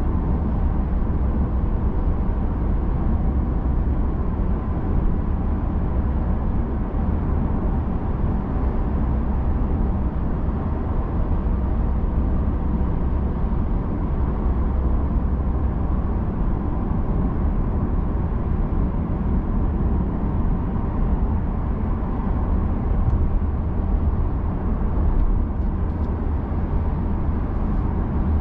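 Steady road, tyre and engine noise inside the cabin of a Genesis G80 cruising on an expressway, an even low rumble that holds constant.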